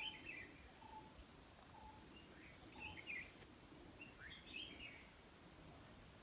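Faint birdsong in a quiet forest: a few short chirps in clusters, and a brief lower whistled note repeating about once a second in the first few seconds.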